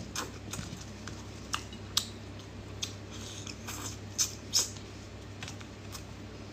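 Close-miked chewing of peeled cooked shrimp: scattered soft wet smacks and mouth clicks, the loudest a pair about four seconds in, over a low steady hum.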